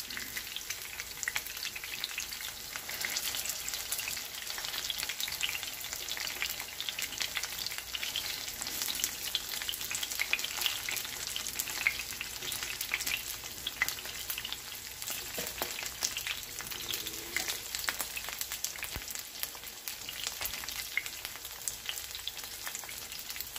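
Breaded pork schnitzels sizzling in shallow oil in a frying pan, a steady fine crackle of spitting oil.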